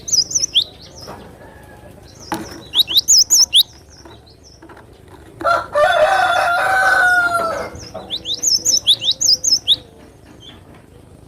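Glatik batu (cinereous tit) singing rapid bursts of high, falling chirps, three times. A rooster crows once in the middle, the loudest sound, for about two seconds.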